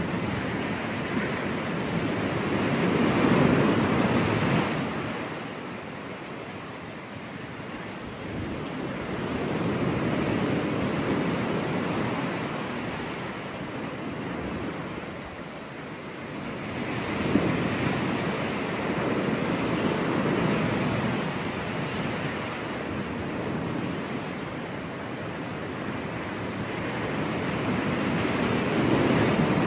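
Ocean surf: waves breaking and washing up the beach in slow swells, a loud surge every several seconds.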